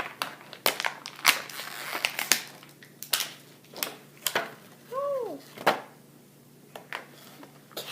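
Plastic toy packaging being handled and pried open, giving a series of sharp clicks and snaps with crinkling between them.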